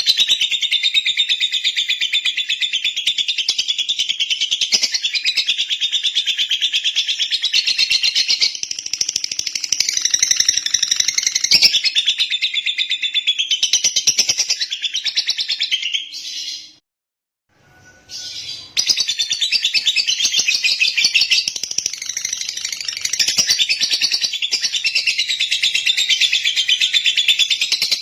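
Lovebird's rapid, continuous high-pitched chattering song, breaking off for about two seconds past the middle and then resuming.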